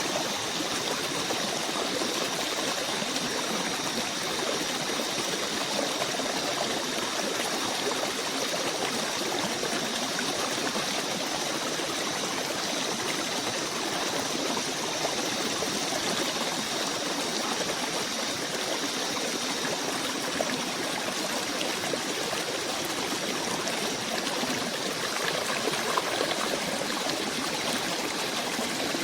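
Small stream running steadily over stones, an even rush of water. Two faint steady high-pitched tones sit above it.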